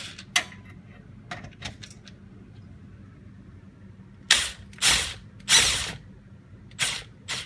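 Impact wrench run in short bursts, about five of half a second each in the second half, driving the jack down to lower the car's subframe. A few faint clicks come before.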